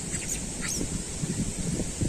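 A few short, high, falling animal calls in the first second, over low crackling and rumbling noise.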